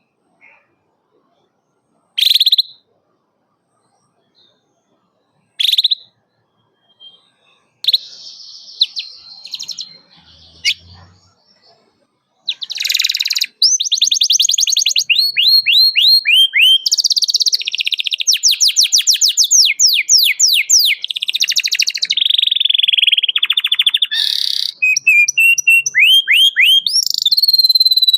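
Domestic canary singing: a few separate sharp 'cuit' chirps several seconds apart, then from about twelve seconds in a continuous loud song of rapid trills and quick falling notes.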